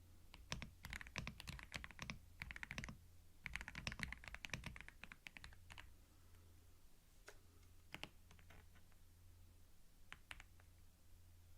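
Computer keyboard typing: quick runs of key clicks for about the first five seconds, then only a few single key taps, over a faint steady low hum.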